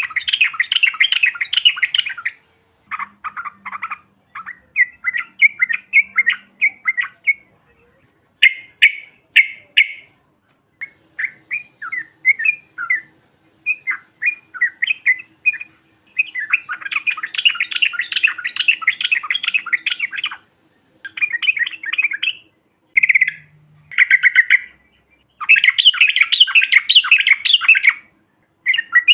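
Yellow-vented bulbuls chattering in quick bubbling phrases, sometimes short and broken, sometimes in long dense trills, with short pauses between bursts.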